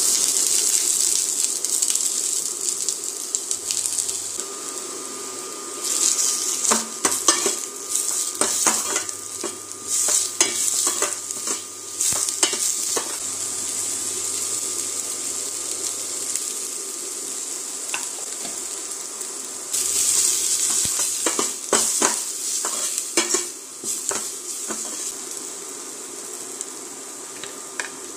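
Chopped onions hitting hot oil in a stainless steel pan and sizzling at once, the frying sizzle running on and swelling again about twenty seconds in. A steel spoon stirring and clinking against the pan comes in bursts over the sizzle.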